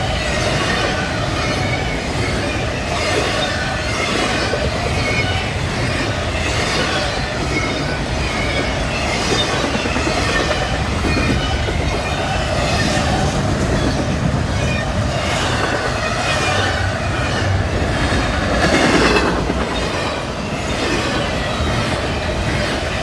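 Long freight train's cars rolling past at speed, steel wheels clattering over the rail joints in a quick repeating rhythm with a steady rumble. A brief louder swell about nineteen seconds in.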